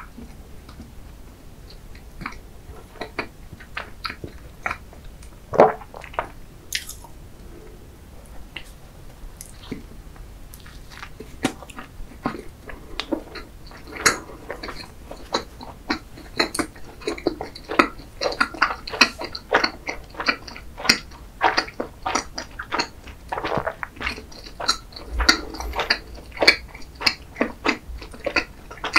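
Close-miked chewing and mouth sounds, sparse for the first ten seconds, then a bite into a chocolate cornet (a soft bread roll filled with thick, sticky chocolate). From about eleven seconds the chewing is dense, with quick irregular wet smacks and clicks.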